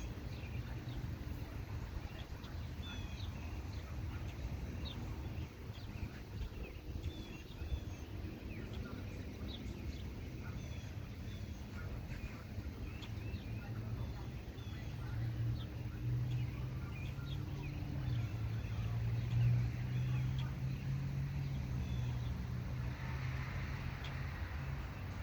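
Many birds chirping in short, scattered calls over a steady low rumble that grows louder in the second half.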